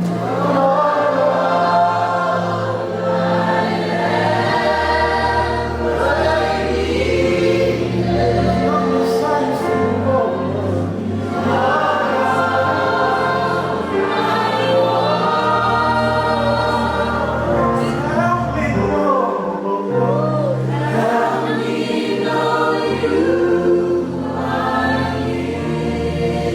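Worship music: a group of voices singing a slow gospel worship song together over held bass notes that change every few seconds.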